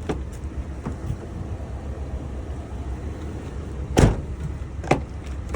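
A car door latch clicking as a rear door is opened: a sharp click about four seconds in and a second click about a second later, over a steady low rumble.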